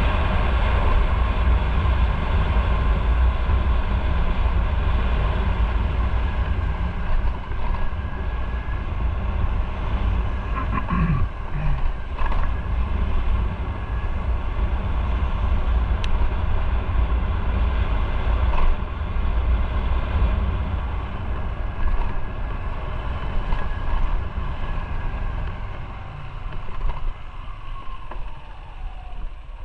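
Motorcycle on the move: its engine running under heavy wind rumble on the microphone. The sound eases off over the last few seconds.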